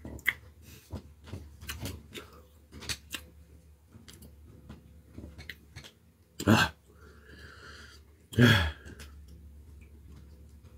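Close-up chewing of a mouthful of barbecue brisket burger, with many small wet clicks and smacks. Later come two short, louder, low throat sounds, about six and a half and eight and a half seconds in.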